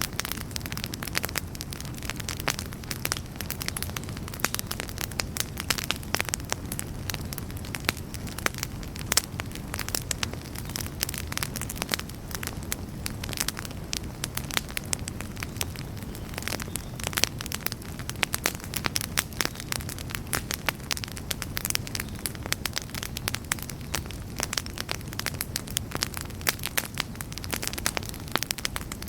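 Wood campfire burning with dense, irregular crackles and pops over a steady low rumble of flames.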